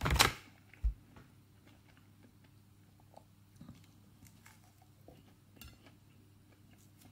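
A person biting into and chewing a breaded tiger prawn. A short loud sound comes right at the start and a low thump about a second in, followed by faint, scattered chewing sounds.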